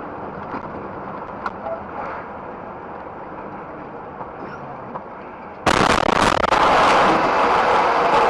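Steady road and traffic noise with a few faint clicks, then about two thirds of the way through it jumps suddenly to a much louder, rushing noise.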